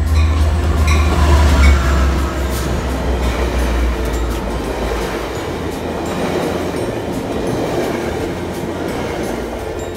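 Metrolink F59PHI diesel locomotive passing close by, with a heavy engine rumble that eases about halfway through as its bilevel coaches follow with steady wheel and rail noise.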